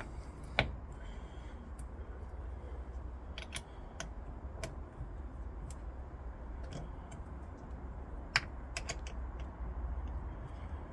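Scattered sharp clicks and taps of hand tools and metal fittings as a new car battery is secured in the engine bay, with two louder knocks, one about half a second in and one about eight seconds in, over a steady low rumble.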